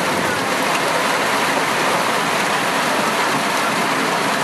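Heavy thunderstorm downpour: rain pouring in a steady, even hiss.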